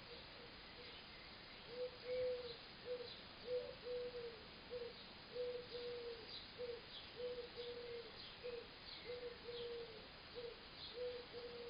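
Woodpigeon cooing: a run of low, soft hoots in a repeating pattern of short and long notes that begins about two seconds in. Faint chirps of small birds sound in the background.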